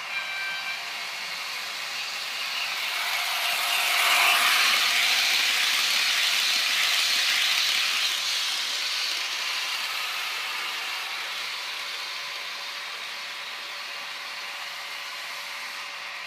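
A train passing out of view: its rolling noise swells to a peak about four seconds in, holds for a few seconds, then slowly fades away.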